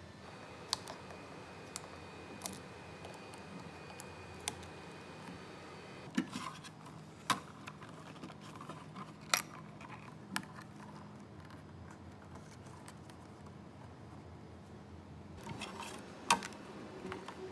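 Small hard plastic pieces being handled, with a dozen or so scattered sharp clicks and taps over a faint steady hum.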